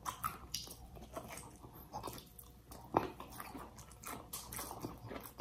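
Close-up chewing and mouth sounds of people eating air-fried carrot pieces and baked fish, with soft wet smacks and small clicks; one sharper click about three seconds in.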